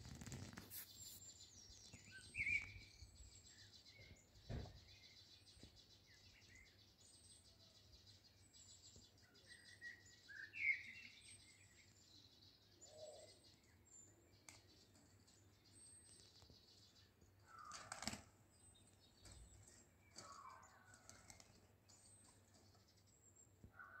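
Faint outdoor ambience with birds chirping now and then in the background, the loudest chirps about two and ten seconds in, and two sharp knocks about four and eighteen seconds in.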